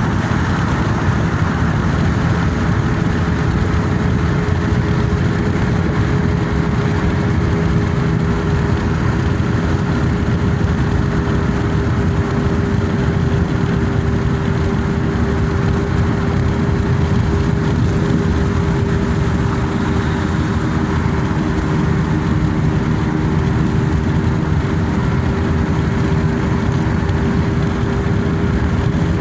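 Car on the move: steady engine and road noise, a low rumble with a constant hum.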